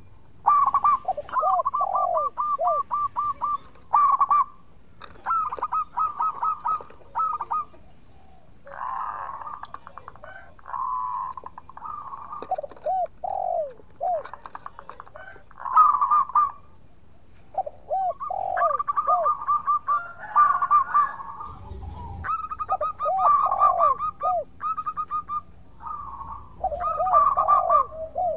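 Zebra dove (perkutut) singing: repeated phrases of quick clipped notes, each followed by a few short downward-curving coos, a phrase every couple of seconds. Rougher chattering calls come in between some phrases.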